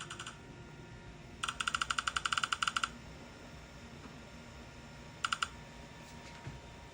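Rapid train of short electronic beeps from a dental scanning device, about ten a second for roughly a second and a half, then a brief second burst a few seconds later, each one marking capture as the scan runs.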